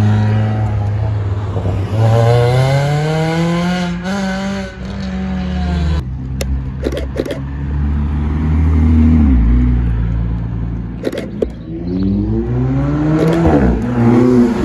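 Cars pulling away one after another: a Ford Fiesta ST rally car's engine revs up twice as it accelerates off, then a Nissan GT-R's twin-turbo V6 runs at low revs with a few sharp cracks, and near the end an Alfa Romeo 4C's turbo four-cylinder revs up as it pulls past.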